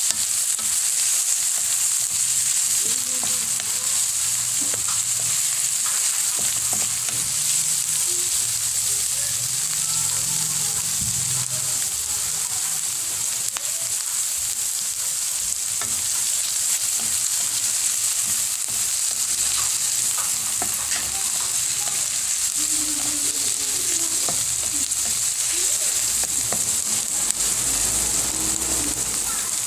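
Chopped onion and garlic sizzling steadily in hot oil in a pan, with a wooden spatula stirring and scraping through them now and then.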